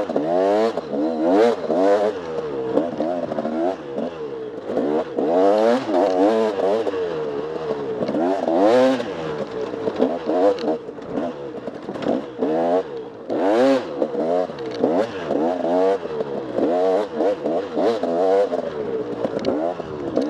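Off-road enduro motorcycle engine revving up and falling back again and again, with the throttle opened and closed every second or two.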